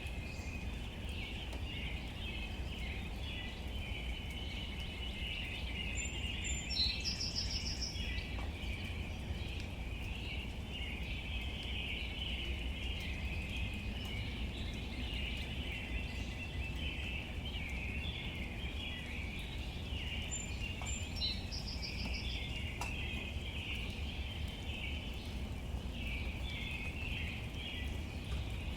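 Outdoor nature ambience: a dense, steady chorus of high chirping over a low rumble, with a short, high, rapidly repeated bird call twice, about fourteen seconds apart.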